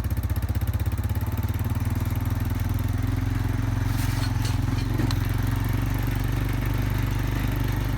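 A vehicle's engine drones steadily at low speed as it drives along a dirt road, with a few light clicks about four to five seconds in.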